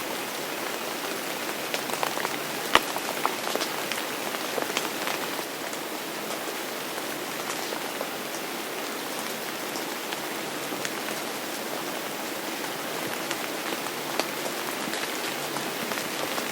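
Steady rain falling on a hard surface, with scattered sharp drops ticking through it and one louder drop about three seconds in.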